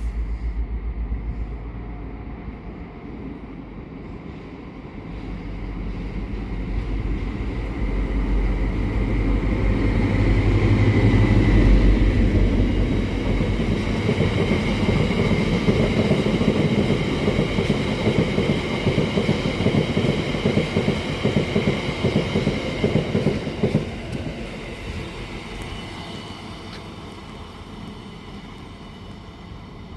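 A train passing on the main line, its rumble growing to a peak about twelve seconds in, then a fast run of wheel clicks over the rail joints for about ten seconds before it fades. A steady high whine runs through it.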